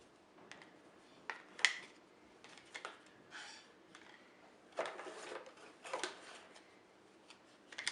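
Scattered light clicks and taps, with a few brief rustles, from small plastic paint pots and a brush being handled while a plaster model volcano is painted. The sharpest click comes about a second and a half in.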